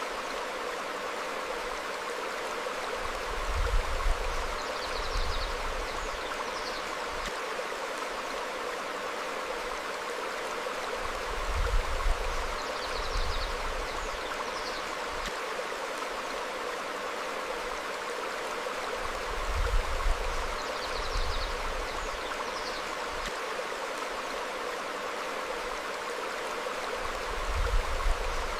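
Stream flowing steadily over rocks, with short high bird chirps in pairs every few seconds. A low rumble swells and fades about every eight seconds.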